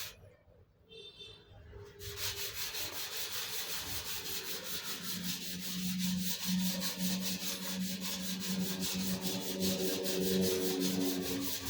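Rapid, even scraping strokes, like sanding or rubbing a surface by hand, starting about two seconds in. A steady low hum grows underneath from about the middle on.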